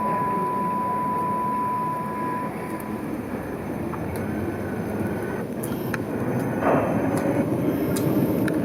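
Tram running along the street: a steady rumbling noise that grows louder near the end, with scattered sharp clicks in the second half. A steady high tone sounds for the first two and a half seconds or so.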